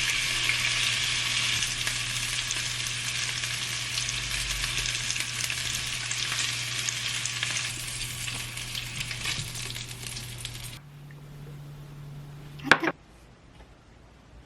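Food sizzling in a hot frying pan over a steady low hum; the sizzle drops away suddenly about eleven seconds in. A short sharp sound follows near the end.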